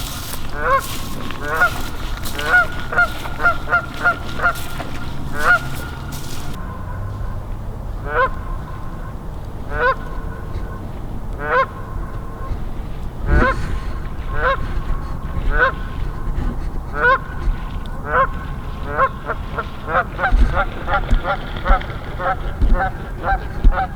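Goose honks repeated again and again, each a short upward-sliding honk, spaced out at first and coming quickly in a fast run near the end.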